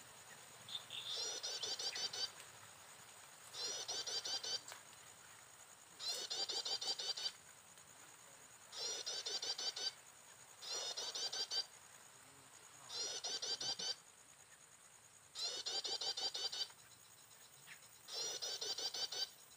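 Prinia lure song repeating as a loop: the same rapid chirping phrase about every two and a half seconds, eight times, played to draw wild prinias to the trap.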